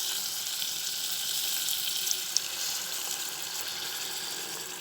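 Chicken pieces sizzling in hot oil and margarine in a pot as hot water is poured in. The sizzle is a steady hiss that slowly dies down, with a couple of faint clicks about two seconds in.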